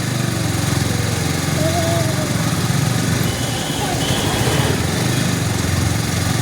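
Motorcycle engine running steadily with a fast, even pulsing beat, and faint voices in the background.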